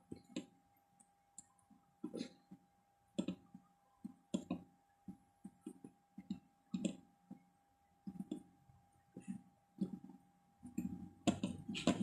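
Irregular light clicks and taps, about one or two a second and bunching near the end, as a soldering iron and thin solder wire work over a charger's circuit board, resoldering its joints. A faint steady whine runs underneath.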